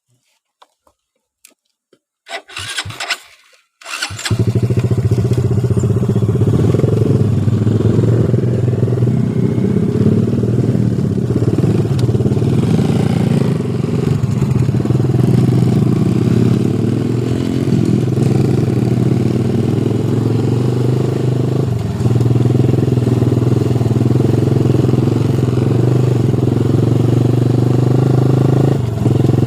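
Motorcycle engine starting: a few short sounds, then it catches about four seconds in and keeps running steadily and loudly, dipping briefly twice.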